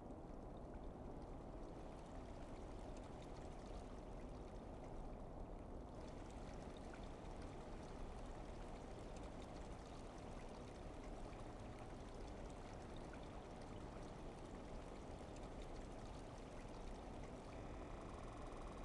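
Noise music: a dense, steady rushing noise like pouring water, with a brighter hiss added about six seconds in and a buzzy droning layer coming in near the end.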